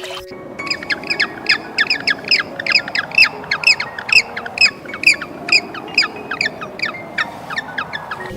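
An animal's rapid calling: a long, even series of short, sharp chirps, each sliding downward, about four or five a second.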